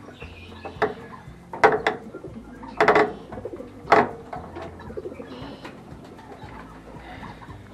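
Birds calling, loudest in three short bursts about a second and a half, three and four seconds in.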